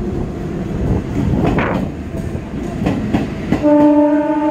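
EMU electric local train running past at speed: low rumble with the repeated clack of wheels over rail joints. About three and a half seconds in, the train horn sounds one steady blast.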